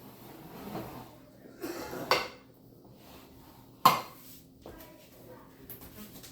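Kitchen clatter of dishes and utensils being handled, with a brief scraping rattle about two seconds in and one sharp, loud clack about four seconds in.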